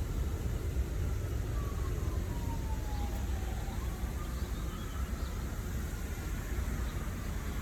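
A faint emergency-vehicle siren slowly falls in pitch over the first few seconds, then climbs back up. It sits over a steady low rumble of city traffic.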